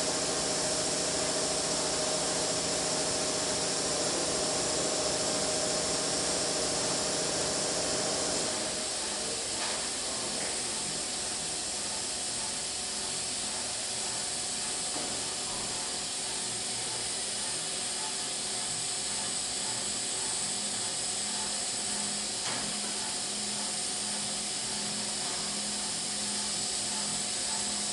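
Machine tool running while cutting a spindle sleeve: a steady hiss with several steady tones, which changes and drops slightly in level about eight seconds in.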